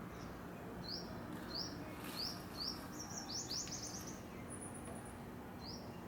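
Small birds calling: a series of short, rising chirps, with a quick run of overlapping chirps about three seconds in and a faint higher whistle shortly after, over a steady low outdoor hiss.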